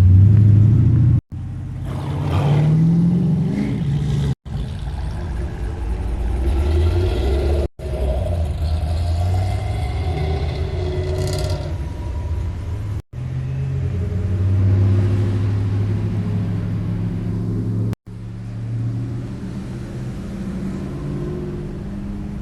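Car engines running and revving in a series of short clips joined by abrupt cuts. One engine rises in pitch as it revs about two seconds in.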